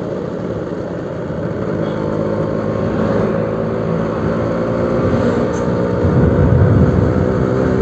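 Suzuki RC100 two-stroke motorcycle engine running through a new aftermarket exhaust, a steady engine note that gets gradually louder, loudest near the end.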